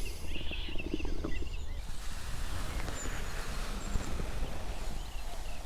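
Outdoor countryside ambience: a few faint, short high bird chirps over a steady low rumble.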